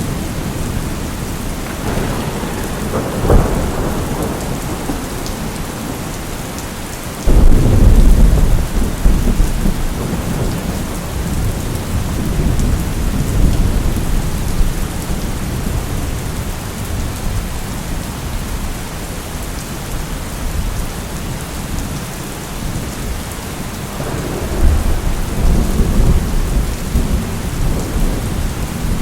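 Steady rain with thunder: a sharp crack about three seconds in, a sudden loud clap about seven seconds in that rumbles on for several seconds, and another rolling rumble near the end.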